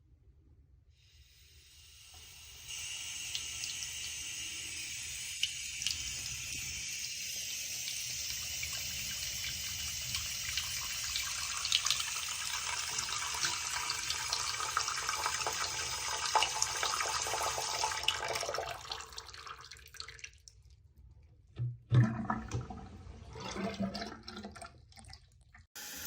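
Water running from a waterfall-spout bathroom faucet into the sink: the flow builds up over the first couple of seconds, runs steadily, then fades out about 19 seconds in as it is shut off. A few knocks follow, the loudest a sharp one about 22 seconds in.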